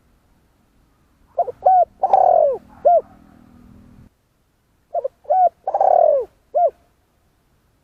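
Spotted dove cooing twice. Each phrase is two short coos, a longer falling coo and a short final coo, and the phrases come about three and a half seconds apart.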